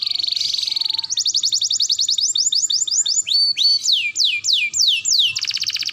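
Canary singing in quick-changing phrases: a fast, even trill, then a run of slower whistled notes that each slide down in pitch, switching near the end to a dense, buzzy rattle.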